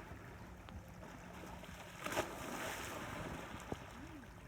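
Boat on open water: wind and water noise with a faint steady low hum, and a brief louder rush about two seconds in.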